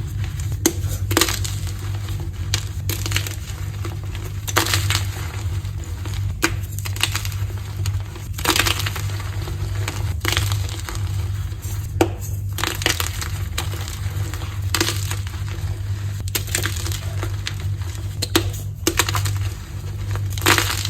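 Blocks of gym chalk being crushed: a run of crisp, irregular crunches about every one to two seconds, over a constant low hum.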